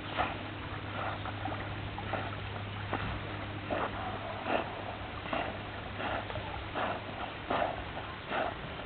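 A dog breathing hard in short, rhythmic puffs about once a second, over a steady low hum.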